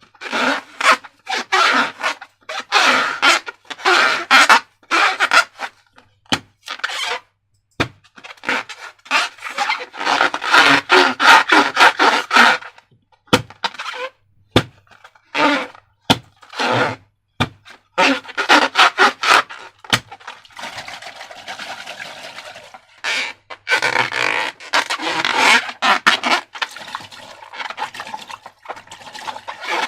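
Slime being squished and worked, squelching and crackling in irregular bursts, with a few sharp clicks.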